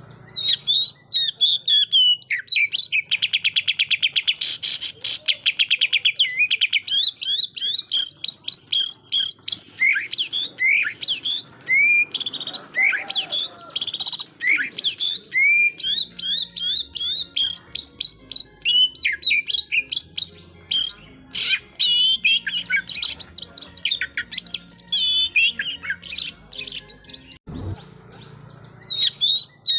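Oriental magpie-robin (kacer) singing loudly, a varied run of sharp whistles, sweeps and chatter. From about two seconds in comes a fast rattle of rapidly repeated notes several seconds long, the 'tembakan' (shooting) burst, and the song breaks off briefly near the end.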